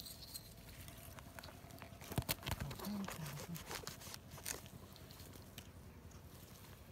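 Fresh, moist oyster mushrooms being picked and handled by hand: scattered crisp snapping, tearing and rustling, with a cluster of sharp snaps about two seconds in.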